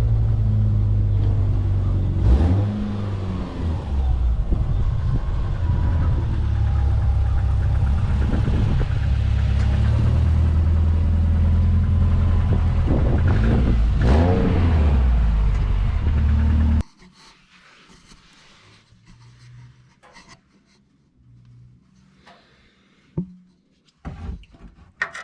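Car engine running with a loud, rumbling exhaust leak from a hole in the rusted resonator pipe where the hanger bracket broke off, revved up and back down a few times. The rumble stops suddenly about seventeen seconds in, leaving only a few faint knocks.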